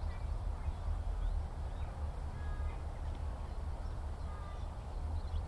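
Faint, scattered bird calls and chirps in open countryside over a steady low rumble.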